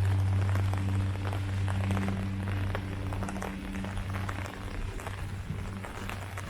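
Rain falling on leaves, with many separate drops ticking over a soft patter. Under it a steady low hum with overtones slowly fades away over the first few seconds.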